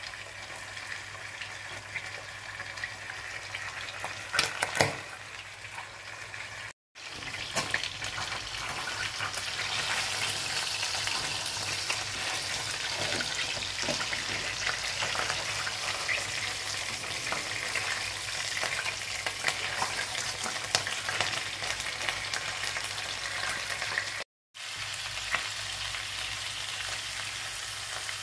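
Whole red snapper frying in hot oil in a nonstick wok, a steady sizzle with a few sharp clicks about four to five seconds in. The sound cuts out briefly twice, and the sizzle is louder after the first break.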